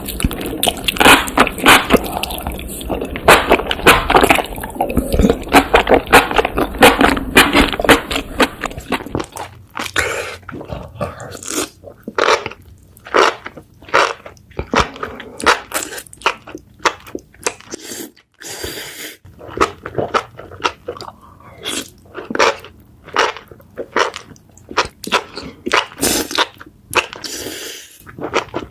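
Close-miked chewing of spicy enoki mushrooms: rapid, crisp crunching and squeaky bites, dense for the first nine seconds or so, then sparser, separate bites and chews.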